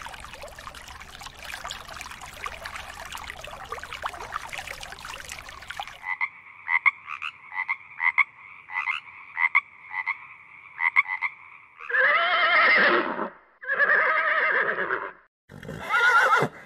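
Aquarium water bubbling for about six seconds. Then a frog croaks in a run of short, evenly repeated calls for about six seconds. Then a horse whinnies: two long neighs, and a third begins near the end.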